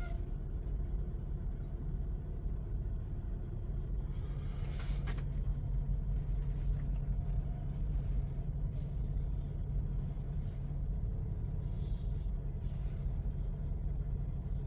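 Semi truck's diesel engine running at low speed with a steady low rumble while the truck backs into a parking spot. A short hiss comes about five seconds in.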